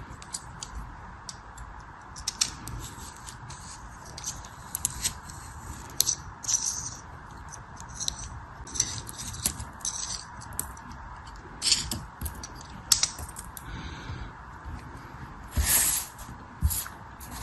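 Irregular crisp crackles and snaps of a brittle craft material being crushed and broken by hand, with a longer crunch near the end, over a faint steady hiss.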